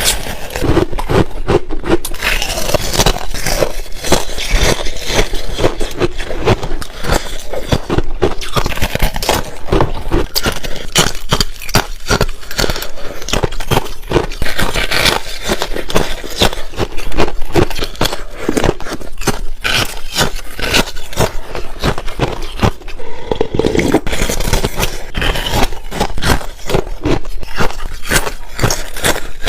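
Ice being bitten close to the microphone: a dense, continuous run of sharp crunches and cracks, one bite after another.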